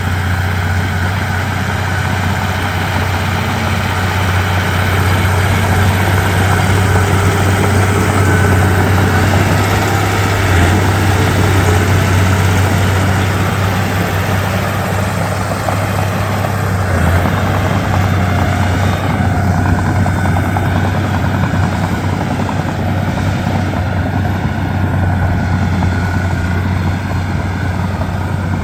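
Komatsu D31P bulldozer's diesel engine running steadily under working load, with a strong low hum and a continuous mechanical rattle over it.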